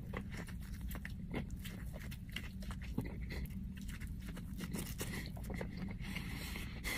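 Close-up chewing of a crispy fried chicken sandwich: many small, sharp crunches of the breaded coating, one after another.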